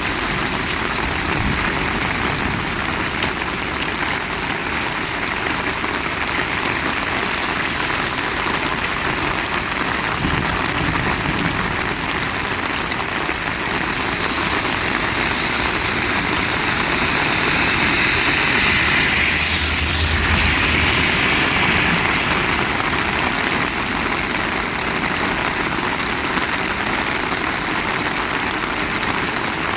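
Heavy rain falling steadily, a dense even hiss. About two-thirds of the way through it swells louder for a few seconds, with a low hum under it.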